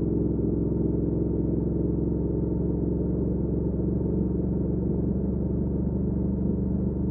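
2019 Triumph Speed Twin's 1200 cc parallel-twin engine running steadily through a Weslake Shorty Pro exhaust while cruising, a deep even exhaust drone with only a slight change in pitch partway through.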